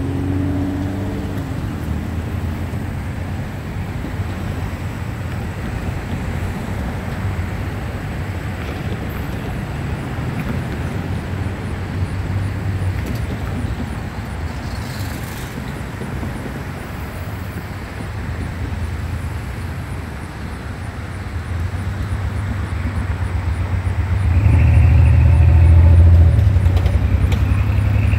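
Freight train rolling away down the track: a steady low rumble of wheels on rail as the last covered hopper recedes. It swells louder about three-quarters of the way through, with a faint higher tone over it.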